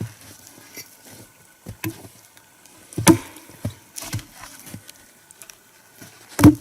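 Axe blows striking a log: two heavy chops about three and a half seconds apart, the second the loudest, with a few lighter knocks of wood between them.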